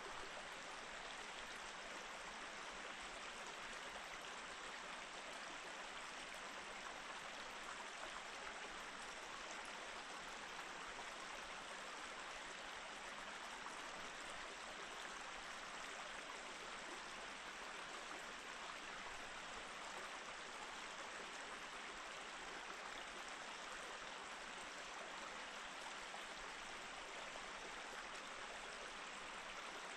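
Small mountain stream flowing steadily over rocks between snowy, partly frozen banks: an even, unbroken rush of water.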